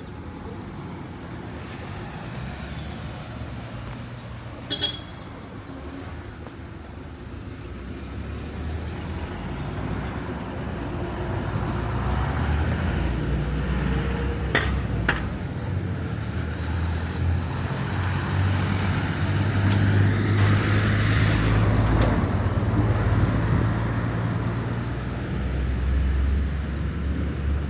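Street traffic: a motor vehicle's engine rumble builds up and passes close, loudest about two-thirds of the way through, with a few short clicks along the way.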